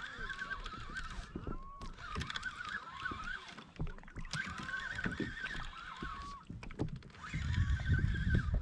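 Birds calling in short repeated bouts of honking notes every couple of seconds, over water and boat-handling knocks; a louder low rumble comes in near the end.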